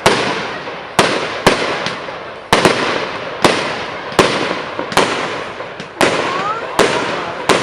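Firework display: a rapid series of sharp bangs, about one or two a second, each followed by a hissing crackle that fades away.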